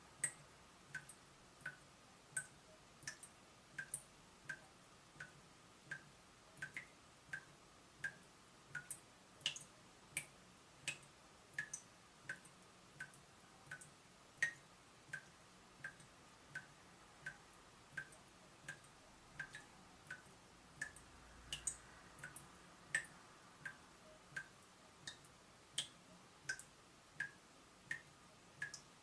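Water dripping from a leaking tap, one short plink about every two-thirds of a second in a steady rhythm.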